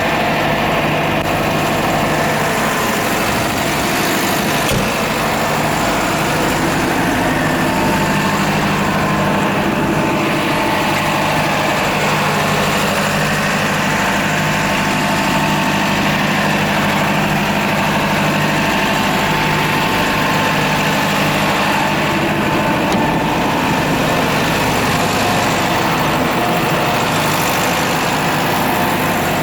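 Diesel engine idling with a steady, unchanging note.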